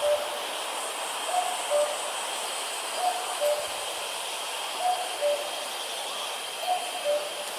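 A distant common cuckoo calling its two-note "cuck-oo", a higher note dropping to a lower one, repeated steadily about every second and three quarters, over a steady high hiss.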